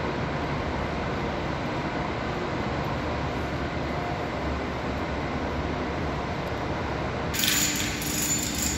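Steady rumbling of a train at a station platform. About seven seconds in, the sound switches abruptly to a brighter, hissier noise with a steady hum.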